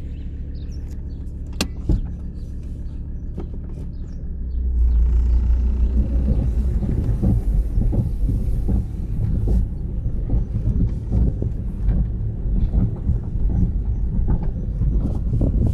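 A low, steady rumble that gets louder about four and a half seconds in and turns uneven and fluttering.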